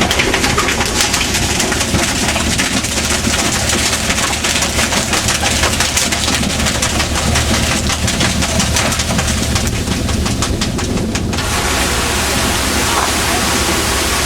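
Fishing boat's engine running steadily under a loud rush of water and wind noise. A fast rattling texture on top fades out about eleven seconds in.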